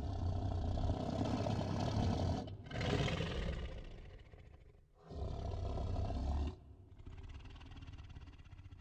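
A large animal roaring: three loud, rough roars, each cut off abruptly, followed by a quieter stretch.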